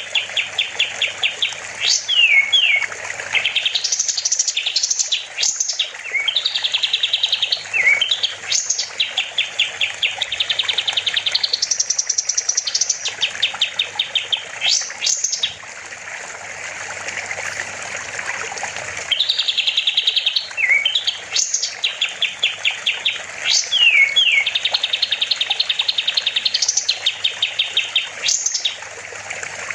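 Kapas tembak (olive-winged bulbul) singing in long, loud phrases of fast trilled notes broken by sharp upward whistles, phrase after phrase. There is a pause of a few seconds a little past the middle, where only a soft hiss remains, before it starts again.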